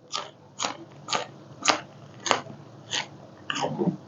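A person chewing a mouthful of raw vegetable, with short, sharp chewing sounds about twice a second.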